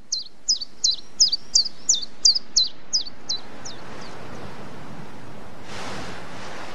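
Bird chirping rapidly, about three short high calls a second, fading out in the first few seconds, over a steady rushing noise like wind that swells briefly near the end.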